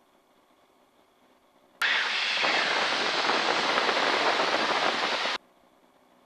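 Loud, steady cockpit noise of the SNJ-6 Texan's engine and slipstream, heard through an intercom microphone that cuts in abruptly about two seconds in and cuts out just as sharply three and a half seconds later; near silence before and after.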